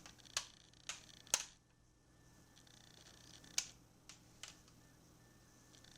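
Scattered sharp clicks and taps of toy alphabet letter pieces being handled, about six in all, the loudest a second and a half in, over quiet room tone.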